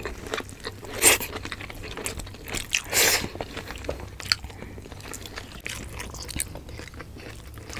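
Close-miked eating: chewing and crunching mouthfuls of food, with two louder crunches about one second and three seconds in.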